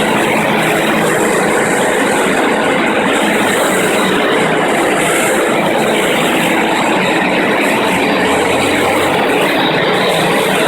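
FastPrep concrete floor grinder running, its 16-grit diamond grinding plates cutting the concrete floor: a loud, steady grinding noise with a motor hum beneath it.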